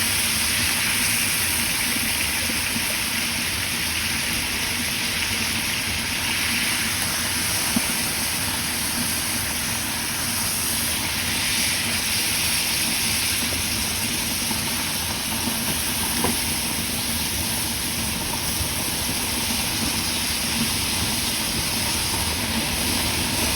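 Yogurt-marinated chicken pieces sizzling steadily in oil on a flat iron tawa over a low flame, the pieces just turned to fry the second side, with a couple of faint ticks.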